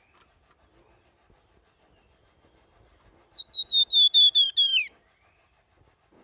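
Flamboyan songbird giving one clear, flute-like whistled phrase of about eight quick notes, stepping slightly lower and ending in a downward slide, about three seconds in.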